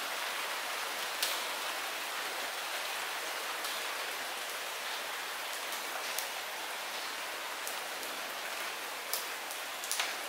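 Steady light rain falling, an even hiss with occasional louder individual drops ticking close by.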